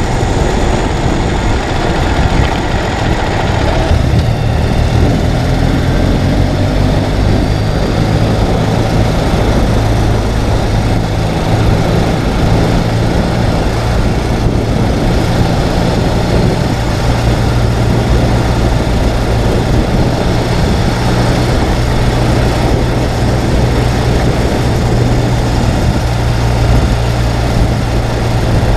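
Ural sidecar motorcycle's air-cooled boxer twin engine running at a steady speed, with a steady rush of wind and road noise.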